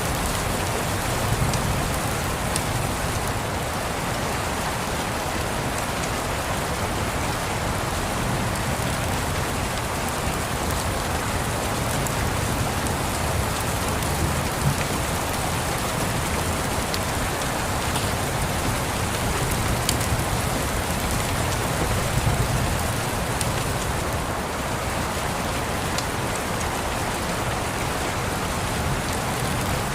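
Steady rain falling on a surface, mixed with scattered sharp crackles from a fireplace and a low rumble that swells now and then, like distant thunder.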